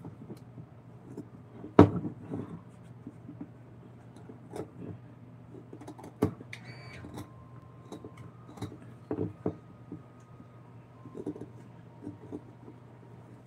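Irregular knocks and clicks, as of objects being handled and set down, over a steady low hum; the loudest knock comes about two seconds in, with a brief squeak around seven seconds.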